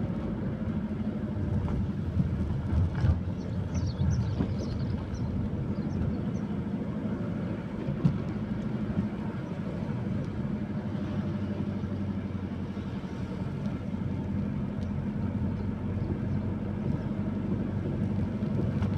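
An engine running steadily with a low drone, with a few short high chirps about four seconds in.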